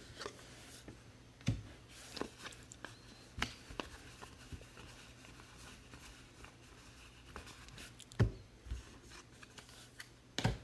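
Hands handling trading cards and pack wrappers on a table: scattered light taps, clicks and rustles, with a few sharper knocks about 1.5, 8 and 10.5 seconds in.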